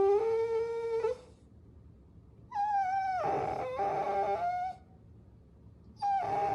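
Puppy whining: long, high-pitched, drawn-out whines. One ends about a second in, a second runs from about two and a half seconds to nearly five, and a third starts near the end.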